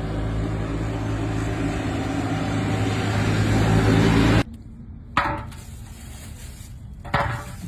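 An engine running steadily, growing a little louder, then cut off abruptly about four and a half seconds in. After that come a few short, sharp knocks over a quiet background.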